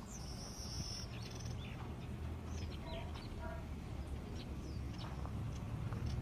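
Street background ambience: a steady low rumble with small birds chirping now and then, and a short high steady tone in the first second.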